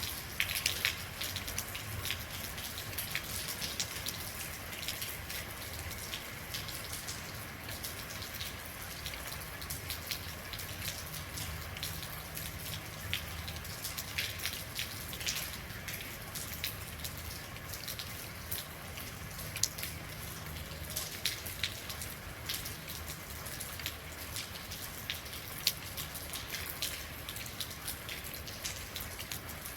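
Real rain falling steadily, with many sharp individual drop hits.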